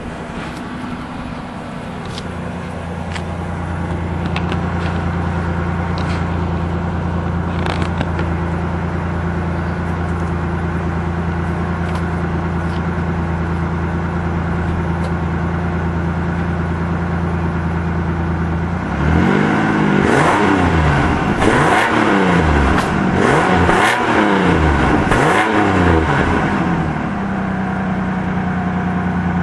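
1998 Ford Ranger's 3.0-litre V6 idling steadily through its stock exhaust. About two-thirds of the way in it is revved about five times in quick succession, each rev rising and falling, then it settles back to idle.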